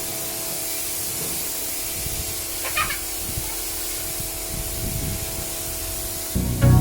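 Pressure washer spraying water onto a car in a steady hiss, with the washer's steady motor hum underneath. Music with a beat comes in near the end.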